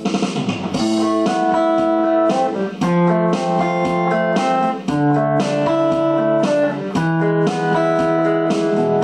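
Instrumental song passage: guitar chords strummed in a steady rhythm over held backing notes.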